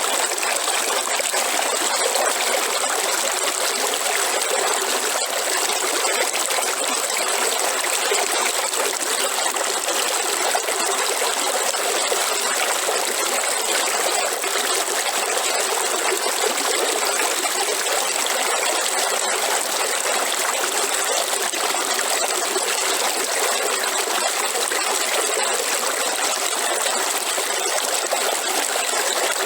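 Waterfall: steady rushing and splashing water, with no change in strength.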